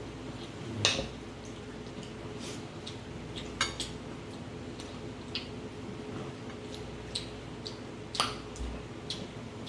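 Eating utensils clicking and scraping against dishes, with three sharper clicks and quieter ticks between, over a steady low hum.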